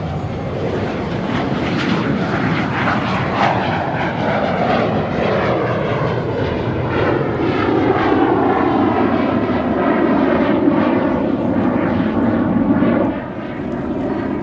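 Kawasaki T-4 jet trainers flying past, their turbofan engines making a loud jet roar with a sweeping, shifting tone. It grows louder through the middle and drops off sharply about thirteen seconds in.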